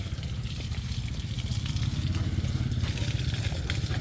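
A small engine running steadily, a low, rapid, even pulsing with faint clicks and rustles over it.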